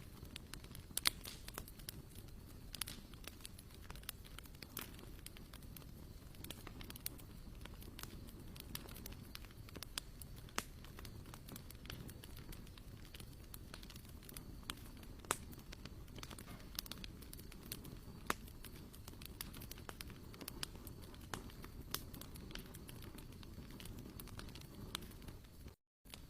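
Campfire wood crackling, with irregular sharp pops over a low steady rumble.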